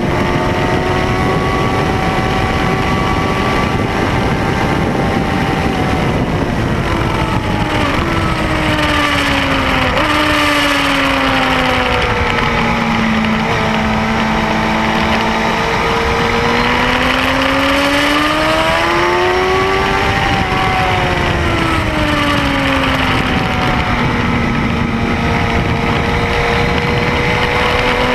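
Triumph Speed Four's 600 cc inline-four engine heard onboard on a race track, over a steady rush of wind. Its pitch drops in steps from about six to twelve seconds in as the bike slows for a corner, stays low through a long lean, climbs under acceleration to a peak about twenty seconds in, falls back and then holds.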